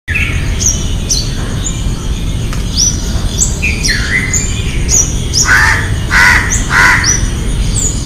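Wild birds calling: a run of short, high whistled notes repeating every half second or so, and three louder, lower calls in quick succession about two-thirds of the way in, over a steady low rumble.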